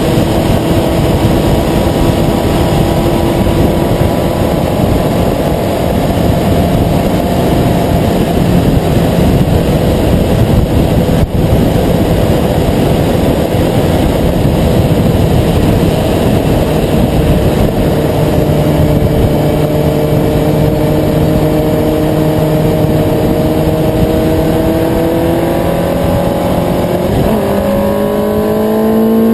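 Car engine running under load, its pitch climbing slowly over a heavy rush of road noise. Near the end the pitch breaks, as at a gear change, and then climbs more steeply.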